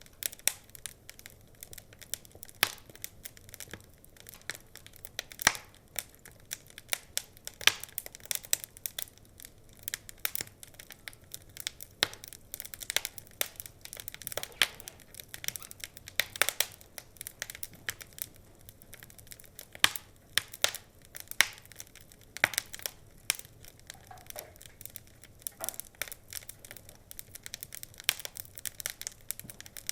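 Wood fire burning in a fireplace, crackling and popping with irregular sharp snaps over a faint low hiss.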